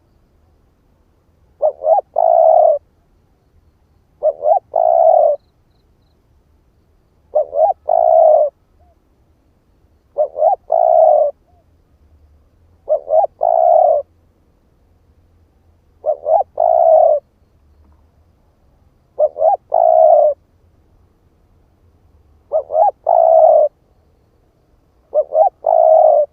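Spotted dove cooing its territorial call: a phrase about every three seconds, nine in all, each of two or three short clipped notes running into one longer coo.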